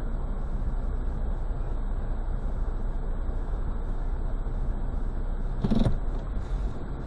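Mitsubishi Pajero's engine running steadily as it drives through woodland, a continuous low rumble, with one brief louder sound a little under six seconds in.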